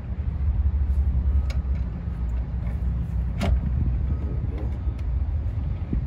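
A steady low rumble with a few light metallic clicks and knocks, the clearest about one and a half and three and a half seconds in, as engine parts and bolts are handled and pushed into place.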